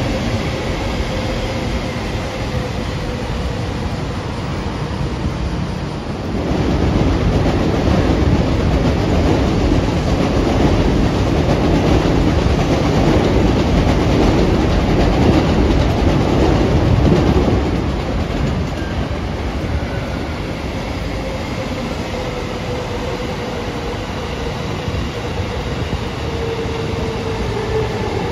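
A train running past on the rails, a steady dense rumble that swells for about ten seconds in the middle and then eases off, with a faint tone that slowly falls in pitch near the start and again near the end.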